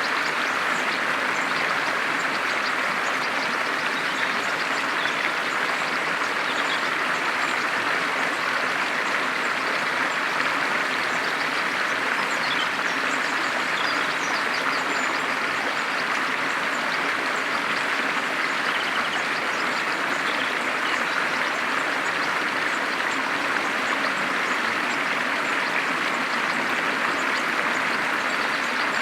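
Steady rush of flowing water, like a stream or small waterfall, with faint scattered bird chirps above it.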